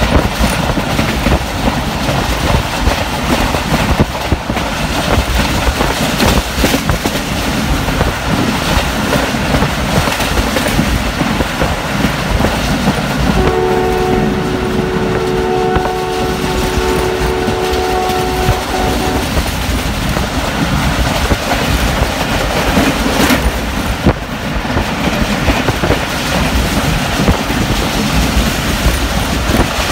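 Passenger train running at speed, heard from inside a coach: a loud, steady rumble and rattle of wheels on rail with rushing air. About thirteen seconds in, the ZCU-20 diesel locomotive's horn sounds one long blast of several held notes, lasting about five seconds.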